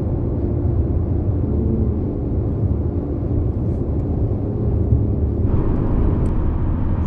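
Steady road and engine rumble inside a moving car's cabin, with a higher tyre hiss joining about five seconds in.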